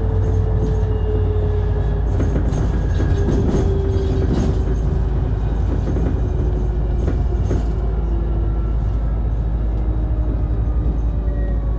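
Cabin running sound of a Mitsubishi Fuso Aero Star Eco Hybrid city bus: a steady low rumble, with the electric drive motor's whine slowly falling in pitch as the bus slows. A few brief knocks and rattles come from the body.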